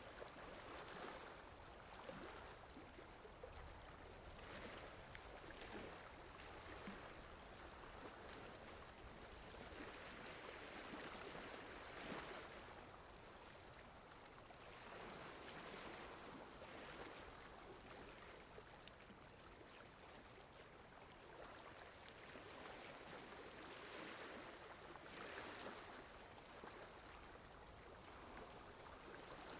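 Soft, faint rainfall: an even hiss that swells and eases every few seconds, with a few scattered small drips.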